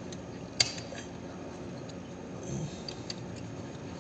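Overload protector being pressed onto a refrigerator compressor's terminal pins: one sharp click about half a second in, then a few small ticks.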